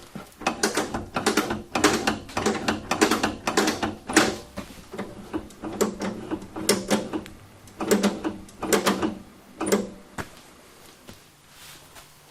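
Irregular metal clanks and rattles of go-kart parts being handled and worked on, some hits ringing briefly, dying away over the last couple of seconds.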